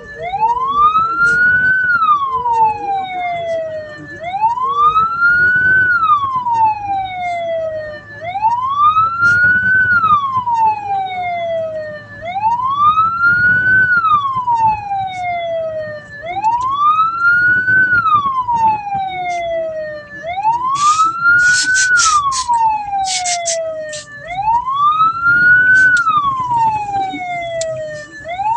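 Hearse siren in a slow wail, its pitch rising quickly and falling more slowly, one cycle about every four seconds, over the low hum of the moving vehicle. About two-thirds of the way through comes a brief burst of sharp high clicks.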